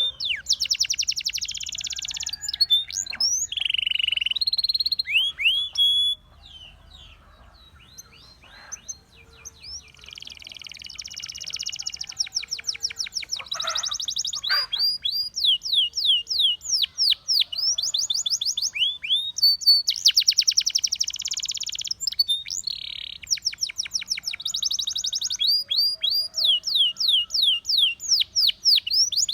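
A Russian singing canary in full song: fast buzzing trills and runs of rapidly repeated sweeping whistled notes. About six seconds in the song drops to a few soft notes, then picks up again about ten seconds in and keeps going.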